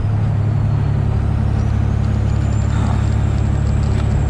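Freightliner Classic XL semi-truck's diesel engine running steadily on the road, a low drone heard inside the cab. A faint high whine falls in pitch during the first second and rises again about two seconds in.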